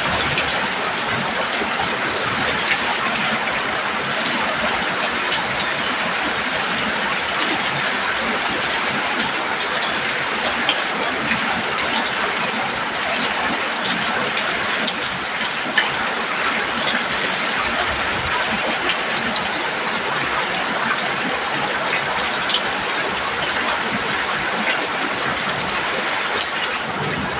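Heavy rain falling steadily on a roof, a dense even hiss with a few single drops ticking out from it now and then.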